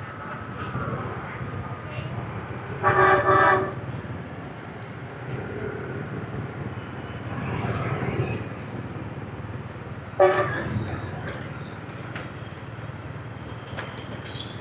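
Steady rumble of motorbike traffic, with a vehicle horn honking twice in quick succession about three seconds in and once more about ten seconds in.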